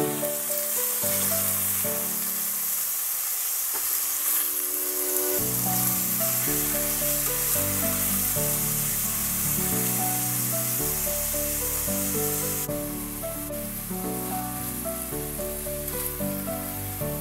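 Pieces of raw chicken sizzling as they fry in a hot pan and are turned with a spatula. The sizzle is steady, then eases somewhat about two-thirds of the way through. Background music with a slow melody plays under it.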